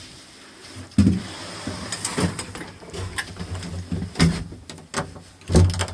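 Old lift's mechanism: a heavy clunk about a second in, then a low steady hum with scattered clicks and knocks as the lift gets going.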